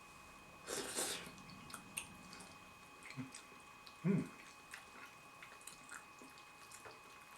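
A person eating instant pot noodles: faint chewing with small mouth clicks, a short noisy burst about a second in, and two brief low sounds around three and four seconds in.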